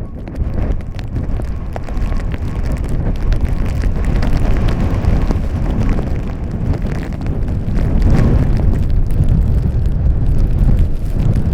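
Strong blizzard wind buffeting the microphone: a loud, low rumble that grows louder over the first few seconds and stays strong.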